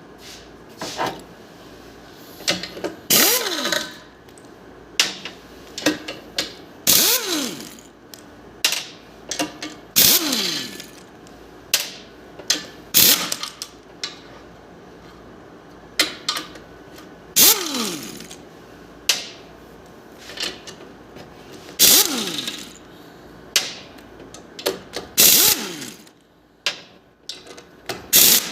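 Repeated short bursts of mechanical noise every few seconds, several of them trailing off in a whine that falls in pitch, like a tool or spinning part winding down.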